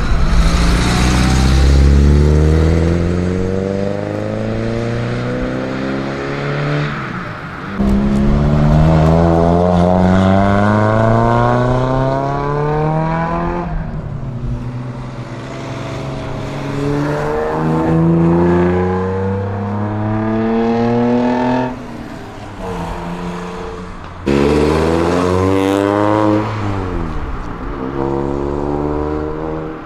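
Several tuned cars accelerating hard away one after another. Their engines rev up through the gears, each climb in pitch falling back at a gear change. The level jumps suddenly where one car's run gives way to the next.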